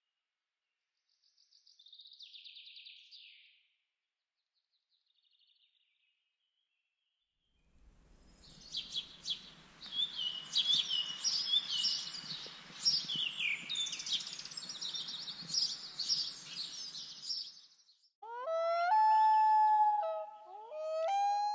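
Birds chirping and singing over a soft outdoor hiss, faint at first and then busy through the middle. Near the end, two loud, drawn-out pitched calls that slide and then hold steady.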